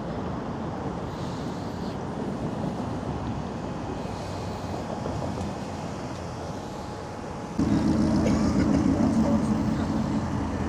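Outdoor car-park background noise, then, about three-quarters of the way in, a car engine suddenly louder and close by, running with a steady low rumble.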